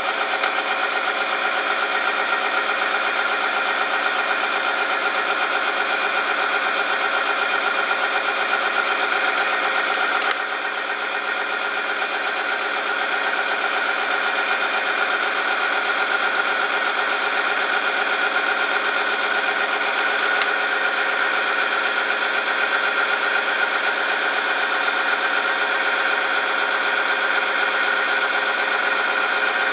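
Oil-film friction test machine running: its motor spins a shaft against a metal test sample lubricated with 10W40 engine oil, giving a steady, high whine with many tones. The level dips briefly about ten seconds in, then holds.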